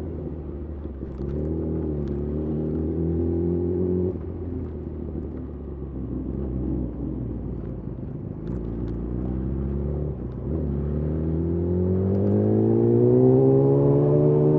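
Yamaha YZF R6's inline-four engine through a de-catted Akrapovic slip-on exhaust, pulling up through the revs under acceleration. The pitch drops back sharply about four seconds in, then climbs again strongly over the last few seconds.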